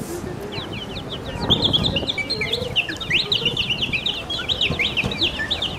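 Rapid, high-pitched bird-like chirping and twittering: many quick sliding chirps tumbling one after another, starting about half a second in.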